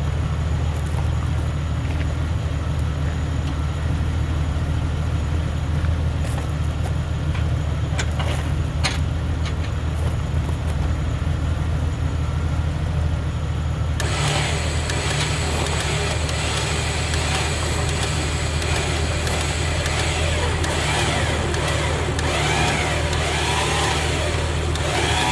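A 1999 Jeep Wrangler's 4.0-litre inline-six engine running steadily at idle. About halfway through, a brighter hiss with a few short rising and falling tones joins it.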